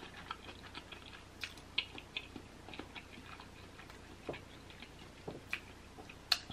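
Faint chewing with soft, wet mouth clicks and smacks at irregular intervals, heard close to the microphone, while eating boiled eggs in sauce; one sharper click near the end.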